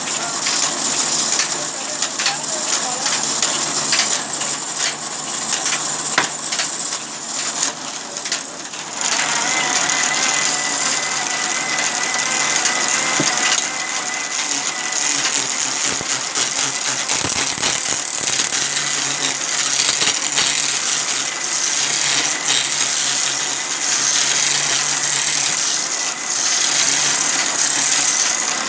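Sawmill saw running, a loud continuous mechanical noise with metallic rattling; a steady high whine sets in about nine seconds in.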